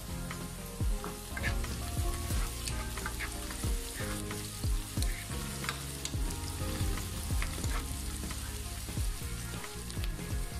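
Sliced onions and whole spices sizzling as they fry in hot oil in a pan, stirred with a wooden spatula that scrapes and knocks against the pan about once or twice a second.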